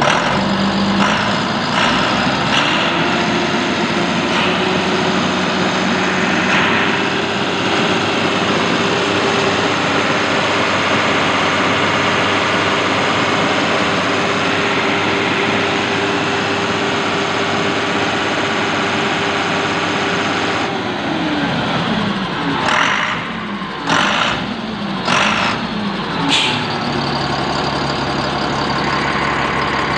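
Kirloskar 6R1080TA six-cylinder turbo diesel engine of a Dozco motor grader, revved up over the first couple of seconds and held at a steady high speed, then dropping back to idle about three-quarters of the way through. A few brief louder sounds come just after it drops.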